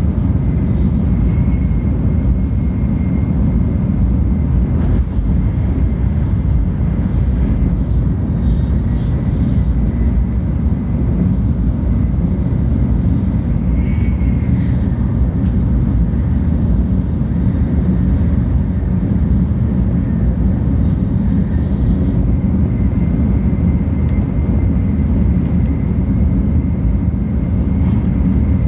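Steady low rumble of a 700 series Shinkansen running at speed, heard inside the passenger cabin, with a faint thin high whine that comes and goes.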